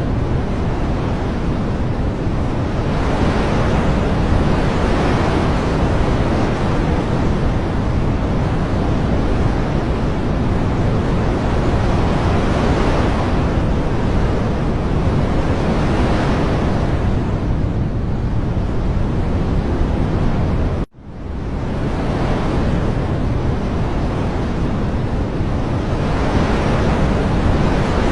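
Loud, steady rushing noise of nature ambience that swells and eases every few seconds. It cuts out briefly about three-quarters of the way through.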